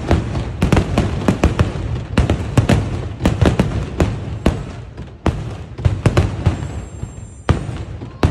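Daytime fireworks bursting overhead in a rapid, irregular barrage of loud bangs, several a second, over a low rumble. A brief high whistle sounds about two-thirds of the way through.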